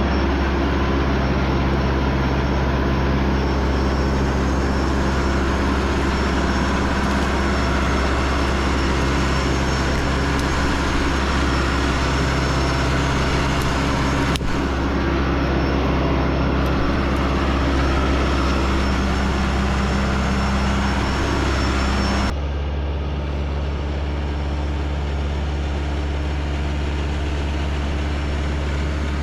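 Tractor engine running steadily at working speed. About 22 seconds in, its note shifts suddenly and it runs slightly quieter.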